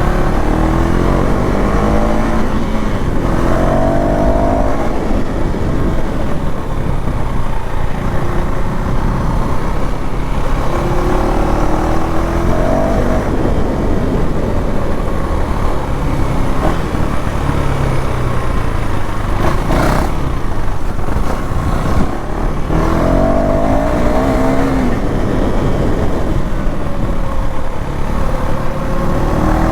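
KTM Duke 390 (third generation) single-cylinder engine on its stock exhaust, running under way, its pitch rising again and again as it revs up through the gears and dropping back between. A brief sharp noise cuts through about two-thirds of the way in.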